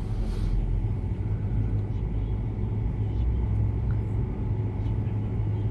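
Steady low hum and rumble with no voice over it.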